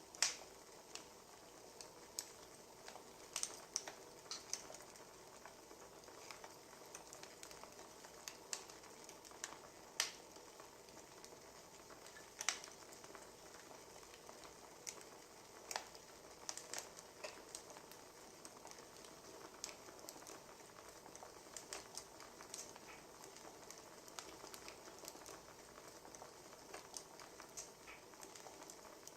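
Wood fire crackling quietly: irregular sharp pops and snaps over a faint steady hiss.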